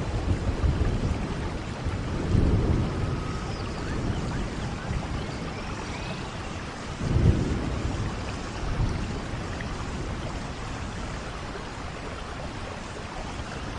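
Steady rain falling in a forest, with low rumbles of thunder swelling about two seconds in and again, louder, about seven seconds in.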